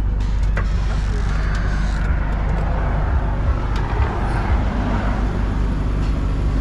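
Street traffic: a passing vehicle's noise swells over a few seconds and fades, over a steady low rumble, with a few light clicks near the start.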